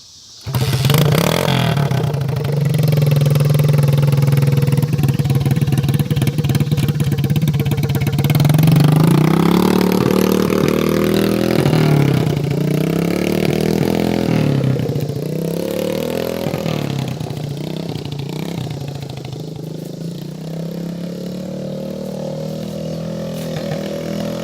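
Old dirt bike engine running after sitting unused for about a year and a half; it comes in suddenly about half a second in and is throttled up and down, its pitch rising and falling in the middle, then runs on a little quieter.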